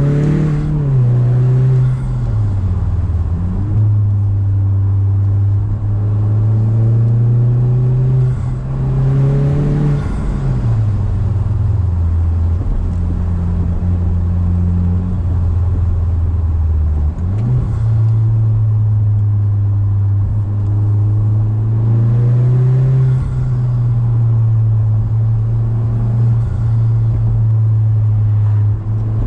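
Mazda6 engine and exhaust heard from inside the cabin while driving: a steady low drone whose pitch drops about two seconds in and again about ten seconds in as the revs fall, then climbs back up around seventeen seconds in.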